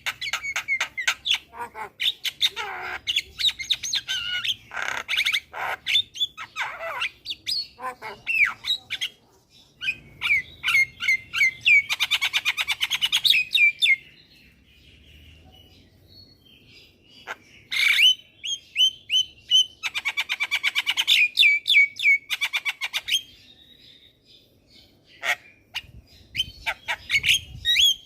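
Javan myna singing in full, fast song: rapid runs of harsh clicks, chatters and short whistled notes, broken by a couple of brief pauses.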